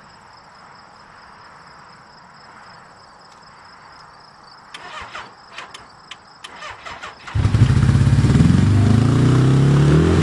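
Crickets chirping steadily, then a few clicks and knocks before a Suzuki GS850 motorcycle engine fires about seven seconds in and runs loudly, with a brief rev near the end.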